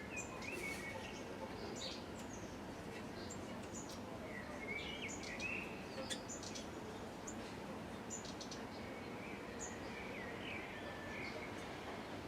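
Small birds chirping and tweeting in short scattered calls over steady background noise.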